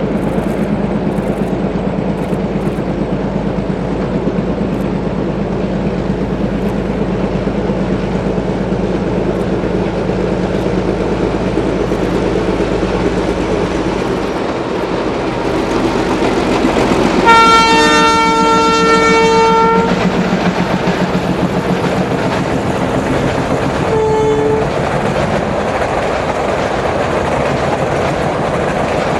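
Metre-gauge train running, with wheels clacking over the rail joints under a steady locomotive engine drone. The locomotive's horn sounds one long blast about 17 seconds in and a short blast about 24 seconds in.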